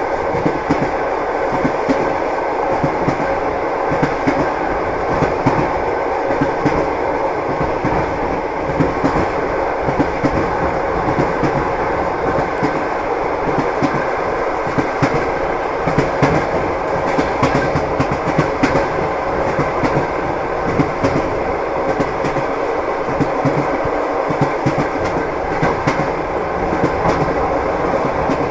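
Train wheels clicking over rail joints over a steady rolling rumble of a moving train, the knocks coming repeatedly.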